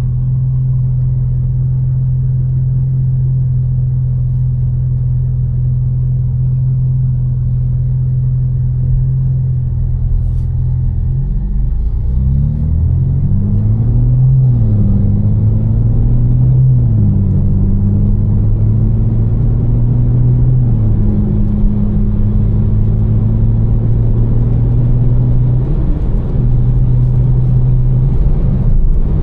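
Tuned BMW M4's twin-turbo inline-six heard from inside the cabin. It holds a steady drone, then partway through its pitch climbs and drops sharply several times as the car accelerates and shifts up through the gears, growing a little louder.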